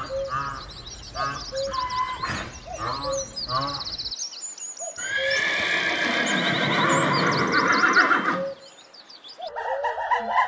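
Horses neighing: a run of short quavering whinnies, then a longer, louder neigh from about five seconds in.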